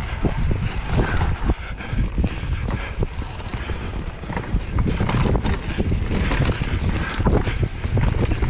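E-bike ridden along a rough woodland trail: wind buffeting the microphone, tyres rumbling over the dirt, and frequent knocks and rattles from the bike.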